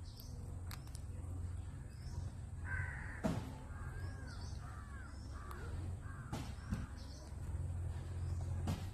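Bird calls: a harsh, caw-like call about three seconds in, then a run of short chattering calls. A few sharp clicks fall among them, over a steady low hum.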